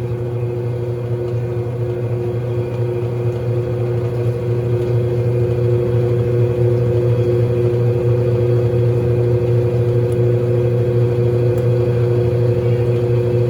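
Mondial Baby BLK20 washing machine running with a steady motor hum, growing a little louder over the first few seconds and then holding level.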